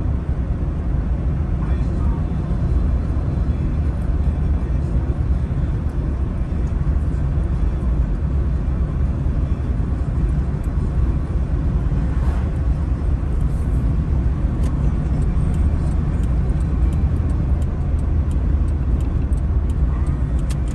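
Car driving at a steady pace, heard from inside: a constant low rumble of engine and tyres on the road, with faint light clicks in the second half.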